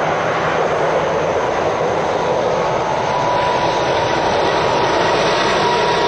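Heavy lorry traffic on a road: a steady roar of truck engines and tyres that holds evenly throughout, with a faint whine.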